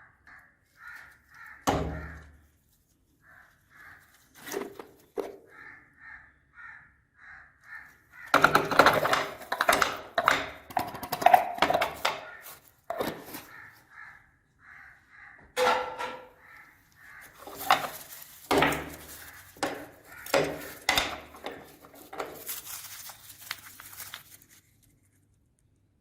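Meat grinder crushing hard lollipop candy: cracking, crunching and knocking, busiest from about a third of the way in. Through it runs a string of short squeaks repeating about twice a second.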